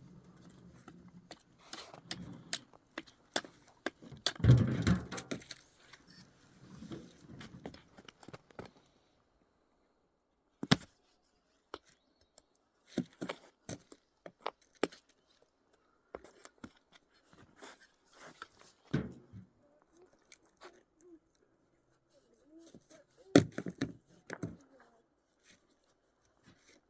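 Irregular knocks, taps and crunches from hand work, with several louder thumps spread through and a faint squeaking near the end.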